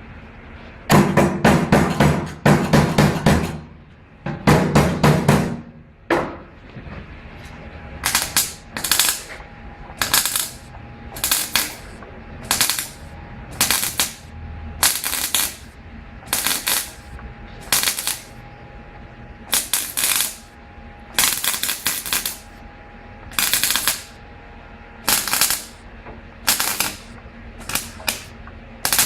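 Repeated short, sharp mechanical rattling bursts: two longer bursts near the start, then a string of short ones at about one a second.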